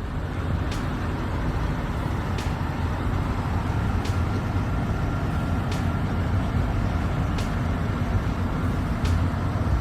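Heavy diesel engine running steadily under load, a deep rumble with a faint regular tick a little more than once a second.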